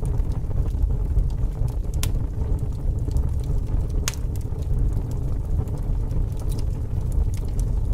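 Fire crackling: a steady low rumble of flames with scattered sharp pops and snaps, the sharpest about two and four seconds in.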